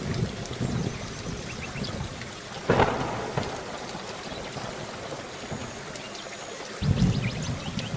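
Steady heavy rain with rolling low thunder rumbles. A sudden sharp thunderclap comes about three seconds in, and a fresh rumble starts near the end.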